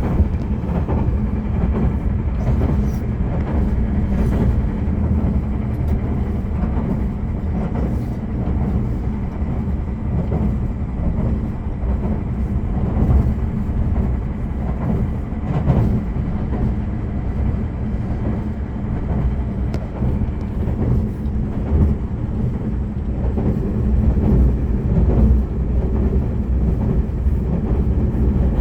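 Limited express train running at speed, heard from inside the passenger cabin: a steady low rumble of wheels on rail with scattered clicks from rail joints and points.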